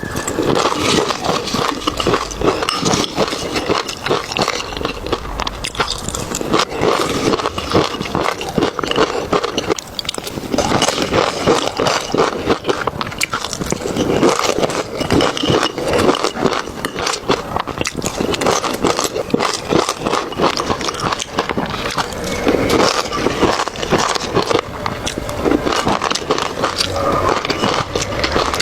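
Close-up eating sounds: continuous chewing and crunching with wet smacking.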